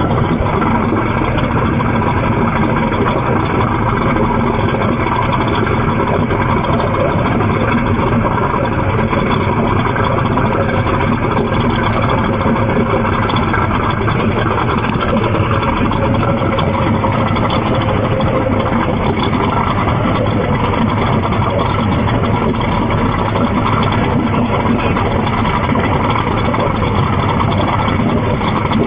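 Twin 300 hp Mercury EFI engines of a race boat running steadily at speed, with rushing wind and water noise. It is loud and even throughout.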